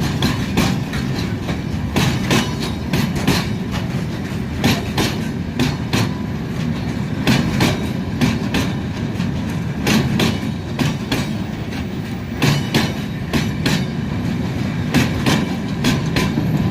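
Train of flat wagons behind an SM42 diesel shunter rolling past, its wheels clacking over rail joints in repeated pairs and groups over a steady low rumble.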